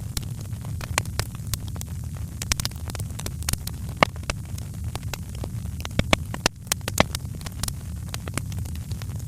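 Wood fire crackling in a fireplace: a steady low rumble under irregular sharp snaps and pops, a few louder ones about four seconds in and again near seven seconds.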